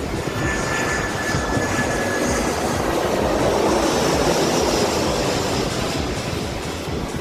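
Jet airliner's engines passing, a steady rush with a high whine that swells to its loudest about halfway through and then eases off.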